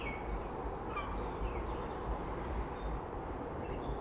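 Faint bird calls, scattered short chirps, over a steady outdoor hiss and low rumble.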